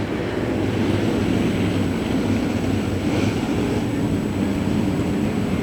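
Semi late model dirt race cars circling under caution, their engines making a steady drone at reduced pace.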